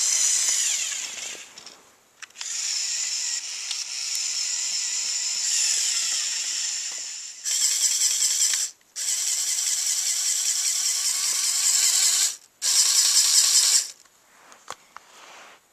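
Electric motors and plastic gears of a remote-controlled Lego Technic trial truck whining at high pitch, in about five runs of one to five seconds with short stops between them. The whine stops near the end, leaving a few light clicks.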